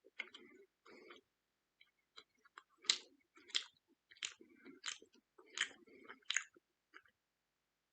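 Close-up chewing of steak: wet mouth sounds, then a steady chewing rhythm of six sharp crunches, about one and a half a second, through the second half.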